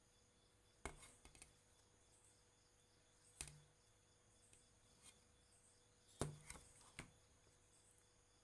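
Faint clicks and light taps of small tools and parts being handled during amplifier repair work. They come in three clusters: about a second in, about three and a half seconds in, and between six and seven seconds in. A faint steady hiss and hum runs under them.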